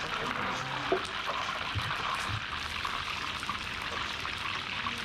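Food sizzling steadily in hot cooking oil, with small crackles, as it is briefly passed through the oil to bring out its aroma.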